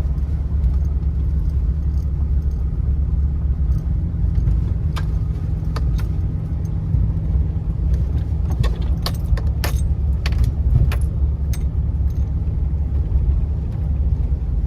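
Truck pulling away, heard from inside the cab: a steady low engine and road rumble, with scattered light clicks and rattles, thickest in the middle.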